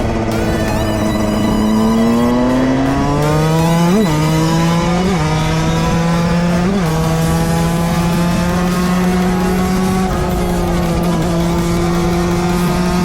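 Two-stroke single-cylinder motorcycle engine pulling hard: the revs climb over the first few seconds, flick up briefly three times, then hold steady at high revs.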